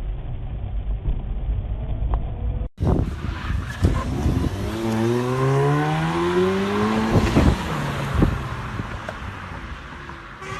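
Car engine and road rumble heard from inside a car. After a sudden change of sound, an engine revs up, its pitch climbing steadily for a couple of seconds, with a few sharp knocks.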